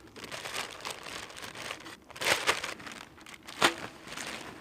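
Crinkling and rustling of a kit bag being handled, with two louder crinkles a little after two seconds in and again near the end.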